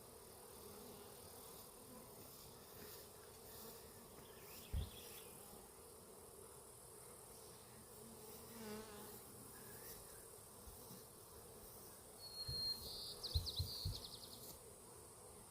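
Honeybees from a disturbed, knocked-over hive buzzing in a steady faint hum, with one bee passing close about nine seconds in. A few dull knocks sound about five seconds in and again near the end, along with high chirping.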